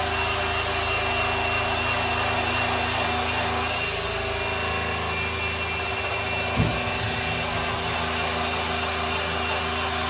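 Electric polisher running steadily, its pad rubbing over a grand piano's lacquer finish, with a motor whine over the rubbing noise. A short low thump about two-thirds of the way through.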